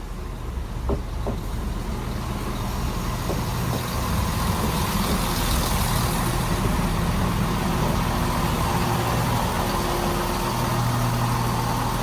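Diesel engines of a Class 170 Turbostar multiple unit running as the train comes into the platform, growing louder over the first few seconds and then holding at a steady drone, with a couple of faint clicks about a second in.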